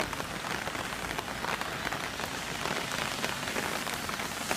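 Steady rain falling, an even patter of many fine drops.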